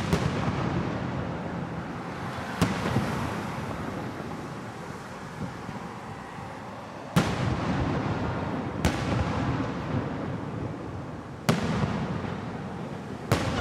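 Aerial fireworks shells bursting overhead: about six sharp bangs a couple of seconds apart, each trailing off in a long rumble.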